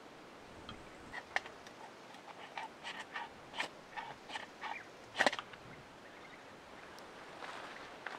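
A run of small clicks and scrapes from something being handled, ending in one louder knock about five seconds in.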